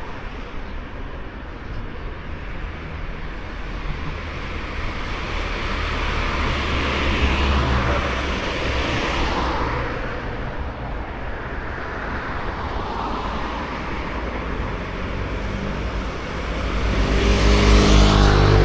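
Road traffic with cars passing by: one swells and fades about halfway through, and a louder one with a clear engine note passes near the end, over a steady hum of traffic.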